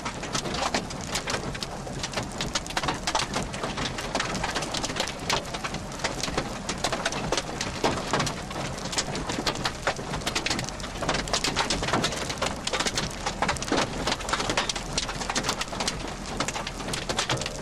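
Rain falling hard, with dense, irregular drops striking a surface close to the microphone.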